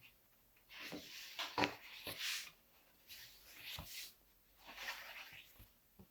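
Paper being handled: sketchbook pages rustling and rubbing in three short bursts, with a few light taps.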